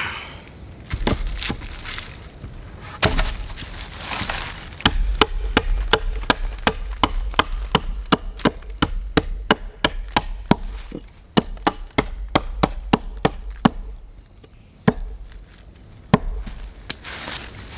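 A blade chopping against wood: a few single strokes, then a fast, even run of about three chops a second lasting some nine seconds, then two more single chops.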